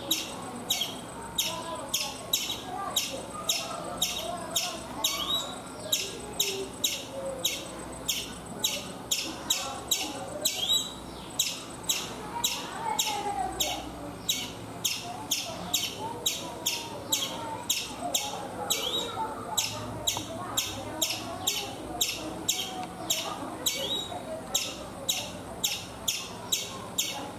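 Indian palm squirrel (the striped 'chipmunk' of Indian coconut palms) giving its high-pitched chirping call over and over, a short sharp chirp about twice a second, steady and unbroken.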